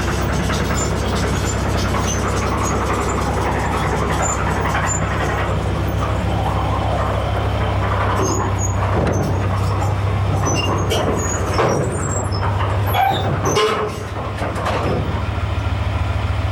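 Beaver armoured bridge layer on a Leopard 1 tank chassis running under load, a steady low diesel drone, while recovering its bridge. Short high squeaks and clicks come and go over the engine, thickest through the middle and latter part, with a brief drop in level near the end.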